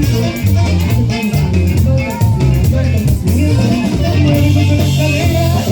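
Norteño cumbia played by a live conjunto: a prominent bass line and drums under a melody line, with no singing.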